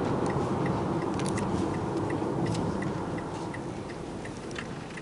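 A car's turn signal ticking evenly, about three clicks a second, over steady road and engine noise in the cabin that gets quieter toward the end.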